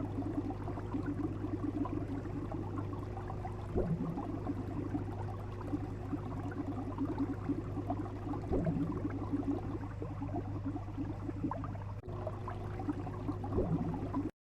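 Bubbling, gurgling water over a steady low hum, with a short swooping sound coming back about every four to five seconds. There is a brief dropout near the end before the sound cuts off.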